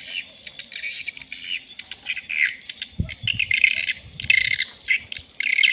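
Swiftlets twittering in dense, rapid bursts of high chirps, with a low thump about three seconds in.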